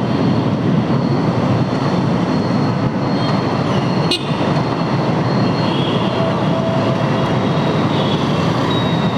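Steady rush of wind over a GoPro's microphone on a moving motorcycle, with the bike's engine and road noise running underneath.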